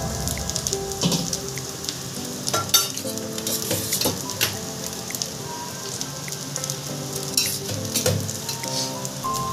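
Rice, egg and vegetables sizzling in butter in a kadai over a low gas flame, a steady frying hiss with scattered crackles and clicks.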